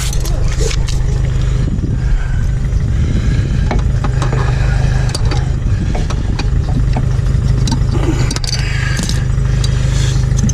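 A car engine idling steadily with a low, even hum, overlaid by scattered short clicks and knocks.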